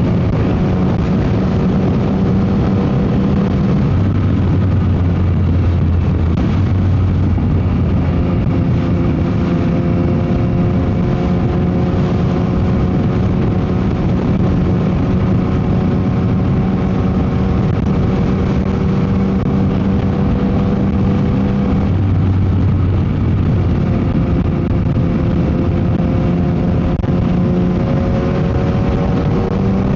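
Yamaha MT-09 SP's three-cylinder engine through a Dominator GP exhaust, running steadily under way, its pitch climbing slowly and changing a few times. Heavy wind noise on the microphone runs under it.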